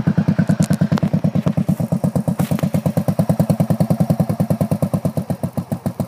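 Motorcycle engine running steadily at low revs with a rapid, even beat.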